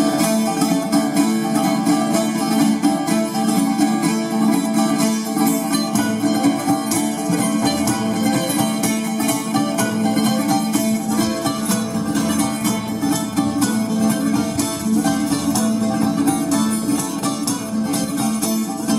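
Music on plucked strings, guitar with bouzouki, playing many quick picked notes over a sustained low note.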